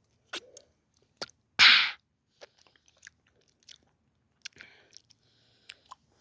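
Close-up mouth sounds of someone drinking straight lemon juice: a loud sip about a second and a half in, among scattered lip smacks and clicks.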